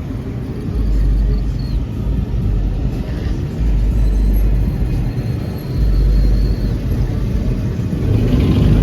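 Truck engines rumbling, with a deep low rumble that swells and fades several times.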